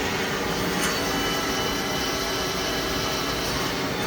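Sub-spindle of a Citizen L20 Swiss-type CNC lathe running steadily at 3,000 RPM, an even machine hum with several steady tones, sounding healthy.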